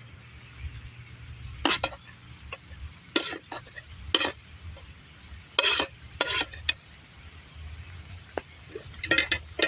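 A spoon stirring meat cooking in milk in a pan over a campfire, with a string of short clinks and scrapes against the metal over a low steady sizzle.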